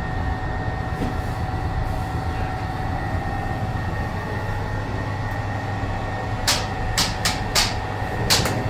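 A steady machine hum with two faint steady tones, and a handful of sharp clicks or knocks in the last couple of seconds.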